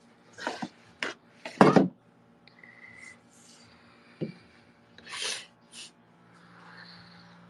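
A handful of short scraping, rustling noises, the loudest about one and a half seconds in, over a steady low hum from a nearby air conditioner.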